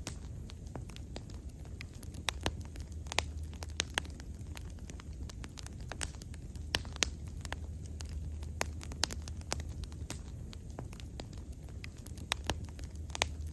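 Wood bonfire crackling: irregular sharp pops and snaps, several a second, over a steady low rumble.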